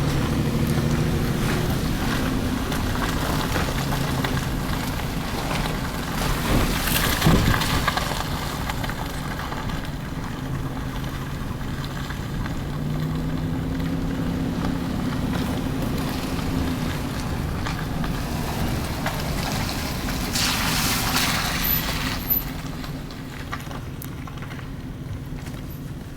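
Car engine and tyre noise while driving, the engine's hum shifting up and down in pitch with speed. A louder rumbling swell comes about seven seconds in and a hissing swell around twenty-one seconds.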